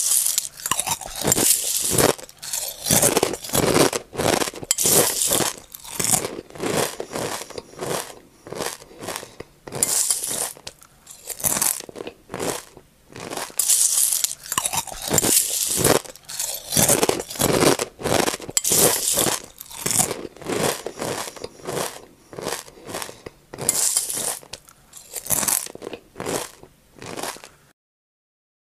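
A person chewing crunchy food close to the microphone: a long run of loud, quick crunches in clusters that stop suddenly near the end.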